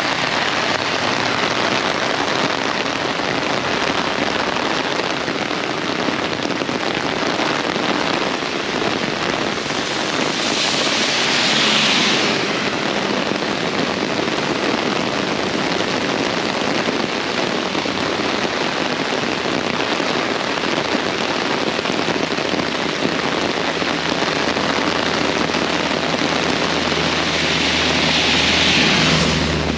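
Very heavy rain pouring steadily, swelling louder twice, about ten seconds in and again near the end.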